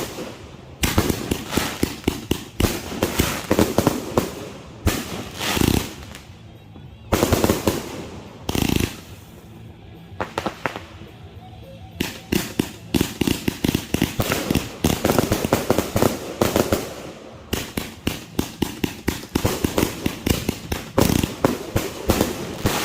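Consumer firework cake firing: rapid volleys of sharp bangs and crackles in bursts separated by short pauses.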